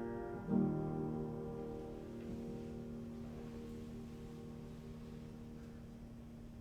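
A piano's closing chord, struck about half a second in and left to ring, fading slowly away.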